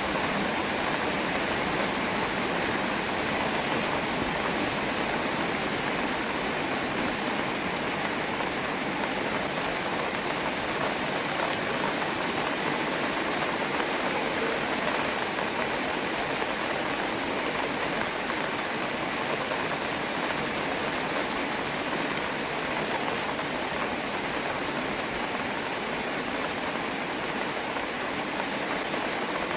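Steady rain falling: a dense, even hiss of drops that holds without a break.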